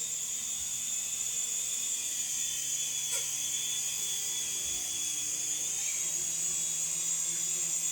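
Small indoor remote-control helicopter in flight, its electric motor and rotors giving a steady high-pitched whine. A brief click about three seconds in.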